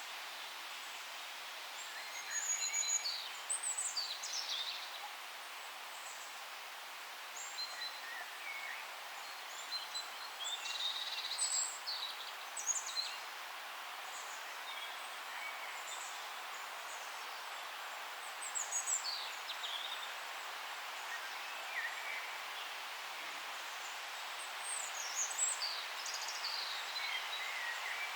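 Wild forest birds chirping and calling in four scattered clusters of short, quick, falling whistles, over a steady background hiss.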